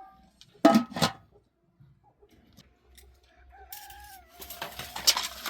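Rooster crowing: one long drawn-out call in the middle, after two short loud sounds about a second in. Near the end a hissing, rustling noise comes in, with a sharp knock.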